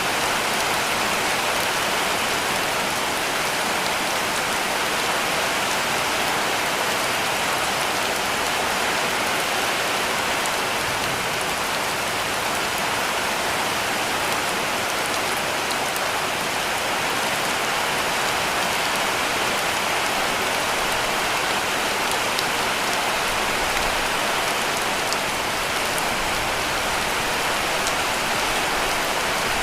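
Heavy rain falling steadily on a cabin roof: a dense, even hiss with a few sharper drop ticks now and then.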